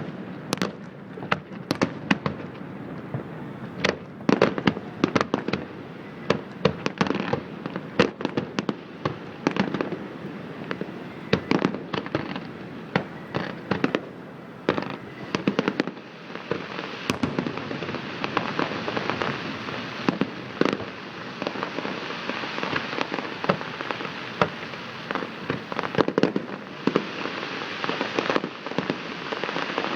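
Fireworks display: shells bursting in a rapid string of sharp bangs and cracks, turning about halfway through into a dense, continuous crackle of many small bursts with bangs still breaking through.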